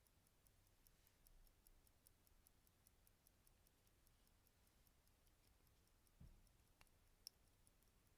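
Faint, even ticking of a vintage hand-wound Thiel mechanical watch movement, about five ticks a second. A soft low thump about six seconds in and a sharper click about a second later.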